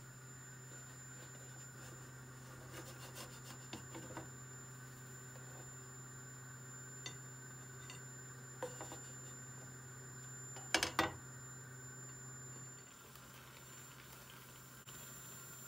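Light clinks of dishes and utensils, with a louder clatter about eleven seconds in, over a steady low hum that cuts off near the end.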